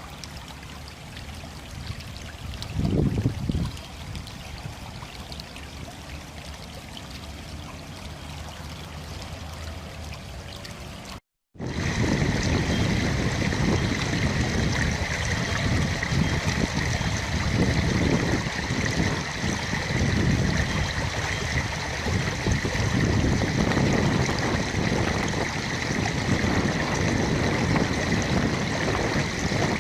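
Running water of a small stream, faint at first. After a cut about eleven seconds in it is louder, with a steady high whine over the rushing.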